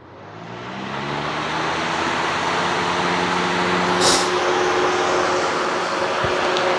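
Lasko B20200 box fan switched on and spinning up: the motor hum rises in pitch over the first couple of seconds, then runs steady under a loud rush of air. The fan is out of balance because part of its blade is broken off. A brief hiss comes about four seconds in.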